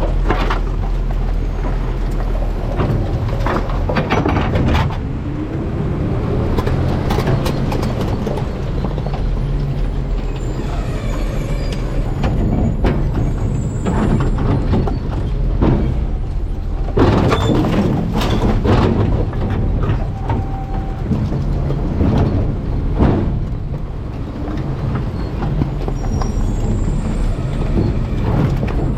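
Garbage truck running with a steady low engine drone, overlaid by irregular knocks, clatters and crunches of refuse in the truck's hopper.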